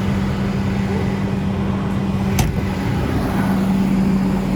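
Tractor engine running steadily with a constant low drone. A single sharp click comes about halfway through.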